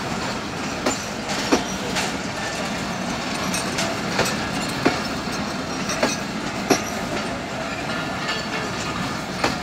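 Broad-gauge passenger coaches rolling past at close range: a steady rumble of steel wheels on rail, with a sharp clack every second or so as the wheels cross the rail joints.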